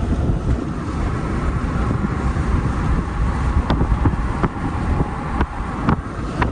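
A car running, heard from inside the cabin as a steady low rumble, with a few light ticks and clicks in the second half.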